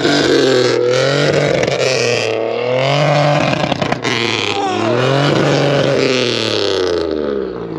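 Pontiac Bonneville engine revved hard several times, the pitch climbing and falling in long sweeps, with sharp exhaust cracks as it pops and shoots flame from the exhaust.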